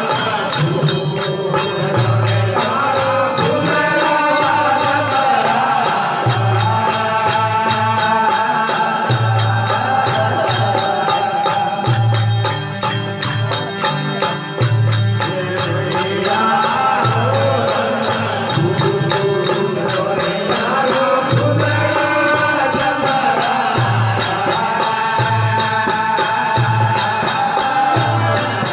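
Desi veena bhajan: devotional folk singing over a plucked drone veena, with a steady low drum beat and quick, regular jingling percussion strikes.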